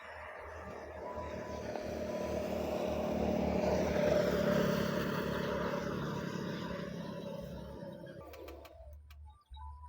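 A motor vehicle passing by, growing louder to a peak about four seconds in, then fading away by about eight seconds.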